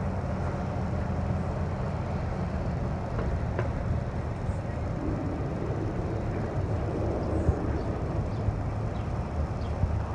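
Steady low rumble of a roller coaster test train running on its steel track, with a few faint ticks.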